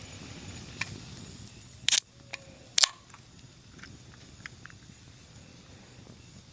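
Two sharp clicks about a second apart, with a few fainter ticks around them, over a low steady background hiss.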